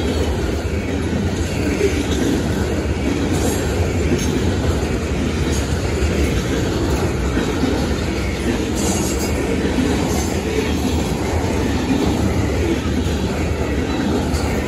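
Freight train of covered hopper cars rolling past: steel wheels running on the rails in a steady rumble that holds an even level throughout.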